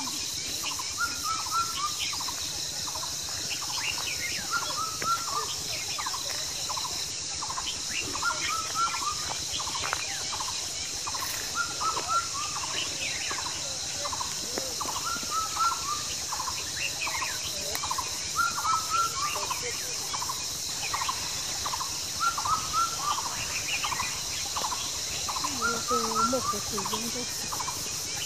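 A bird calling over and over in small clusters of short hooked notes, every second or two, over a steady high hiss.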